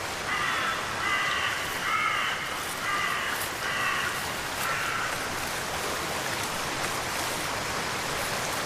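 A crow cawing about six times in a row, harsh calls that stop about five seconds in. A steady hiss of rain or running water continues underneath.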